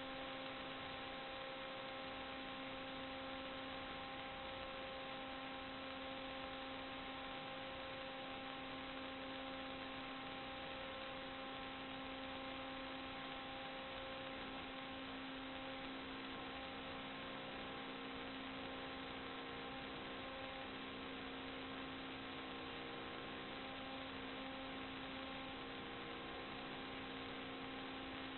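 Steady electrical hum of several fixed tones over a constant hiss, unchanging throughout.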